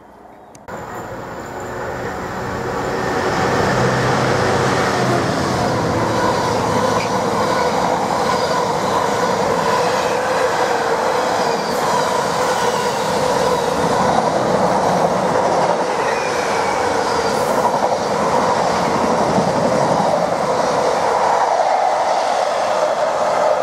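Container freight train passing close by, its wagon wheels rumbling and clattering over the rails with a steady ringing whine. It swells up over the first few seconds, then holds loud and even.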